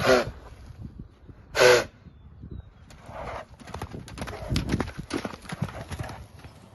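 Horse hooves clopping in an uneven run of knocks. Near the start there are two short, loud pitched calls about a second and a half apart.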